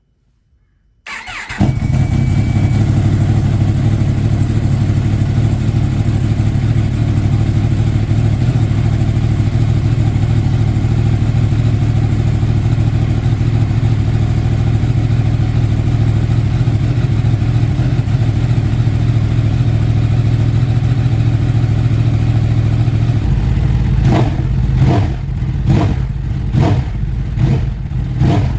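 Yamaha R1M's crossplane inline-four with an Akrapovic exhaust starting from cold: the starter turns briefly, the engine catches and settles into a loud, steady idle. Near the end the throttle is blipped several times in quick revs.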